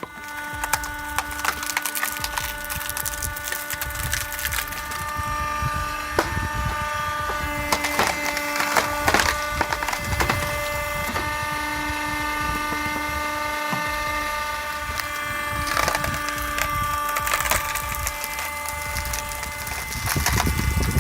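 Electric-powered hydraulic wood splitter running, its motor and pump giving a steady whine, with repeated cracking and splintering as logs split apart.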